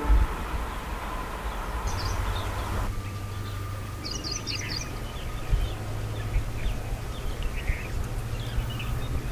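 Birds chirping in short scattered bursts over a low, steady hum, just after a train horn stops.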